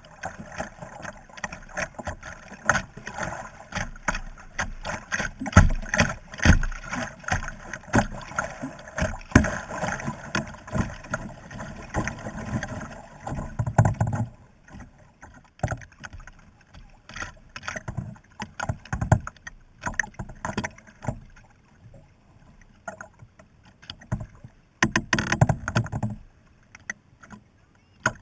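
Kayak paddling: paddle strokes splashing in the water, with many sharp clicks and knocks. The strokes are busy and continuous for about the first half, then come sparser, with a louder burst of splashing near the end.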